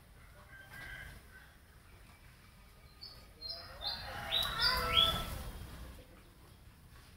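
Birds calling: a faint short chirp about a second in, then a quick run of short, high chirps and calls a few seconds in, loudest around five seconds.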